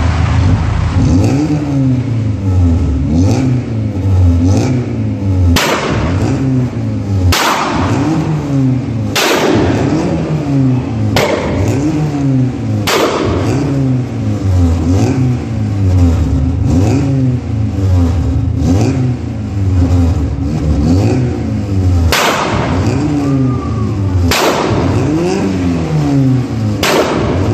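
A tuned car's engine held on launch control, the revs rising and falling over and over about once a second. Loud exhaust bangs break through about eight times, in a run every couple of seconds before the middle and again near the end.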